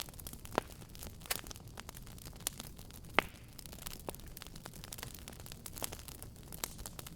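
Fire in a fireplace crackling: irregular sharp pops and snaps over a steady low hiss of the burning, with the loudest pop about three seconds in.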